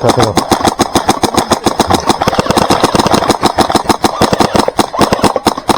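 Airsoft electric gun firing on full auto: a continuous stream of rapid, evenly spaced shots with the mechanism's clatter.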